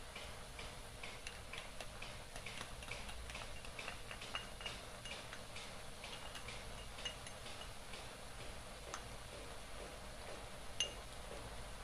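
Food cooking in a wok with a little liquid, giving a light crackle of small irregular pops over a soft hiss. A sharper click near the end as the spatula touches the wok.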